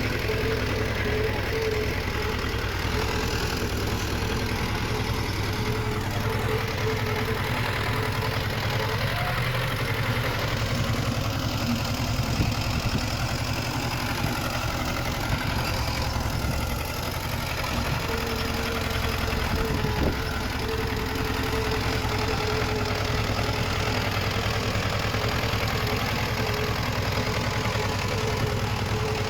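Diesel engine of heavy earthmoving machinery running steadily, with a thin whine that comes and goes and a single sharp knock about twenty seconds in.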